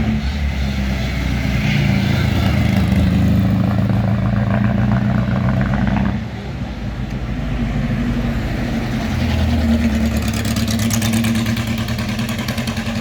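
Classic car engines running as cars drive slowly past, with the engine sound dipping and changing about six seconds in as one car gives way to the next, which grows louder toward the end.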